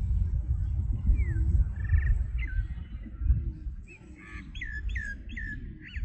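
Birds chirping in short falling notes, a couple early and then a quick run of about five near the end, over a steady low rumble.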